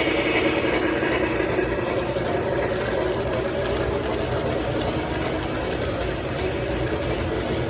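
O gauge Lionel model train running steadily on its track: the motor's whir and the wheels on the rails, with no pause.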